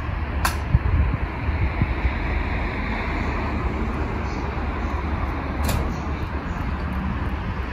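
Steady hum and rumble of an electric commuter train standing at a station platform, with two sharp clicks about five seconds apart.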